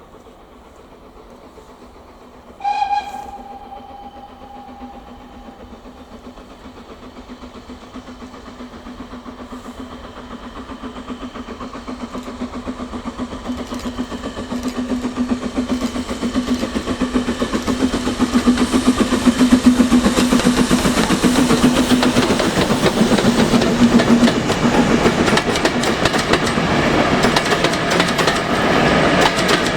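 Steam locomotive, a G10, gives one short whistle about three seconds in. Its running sound then grows steadily louder as it approaches, a steady hum under a fast rhythmic beat, and stays loud through the second half.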